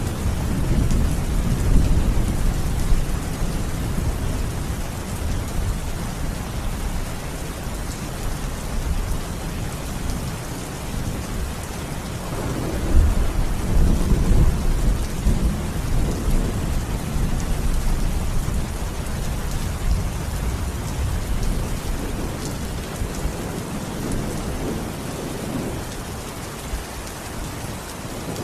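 Steady rain hissing, with low rolling thunder that swells near the start and again about halfway through.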